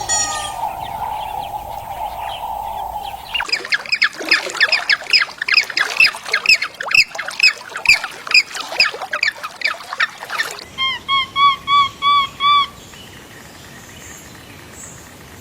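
Birds calling in an edited run of clips. A steady hum gives way, about three seconds in, to a flock calling rapidly over one another for several seconds. Then comes a short series of evenly repeated pitched calls, about three a second, before the sound drops to a low background near the end.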